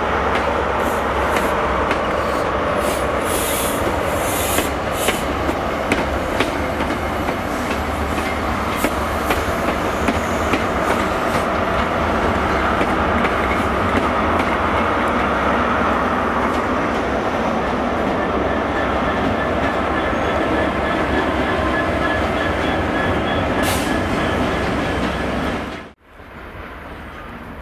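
Great Western Railway Class 43 HST diesel train rolling slowly past on the station tracks, its wheels clicking over rail joints and pointwork, with a faint wheel squeal in the second half. About a second before the end the sound cuts off abruptly to a quieter background.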